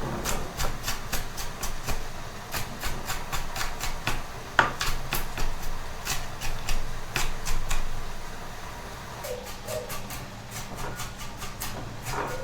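Knife chopping on a cutting board in quick, regular strokes, several a second, thinning out in the last few seconds.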